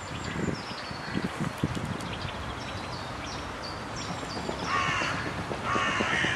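Birds calling: a small bird's quick, high chirping notes repeat throughout, then two harsh, rasping caws come about five and six seconds in.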